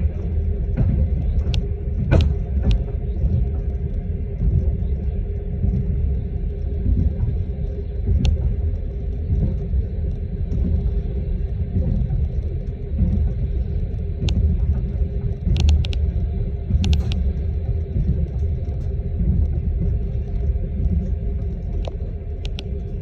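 Steady low motor rumble with a constant hum, and scattered sharp clicks.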